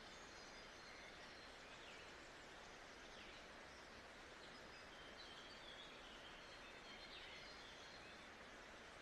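Faint nature ambience used as study background noise: a steady, even hiss with faint bird chirps now and then.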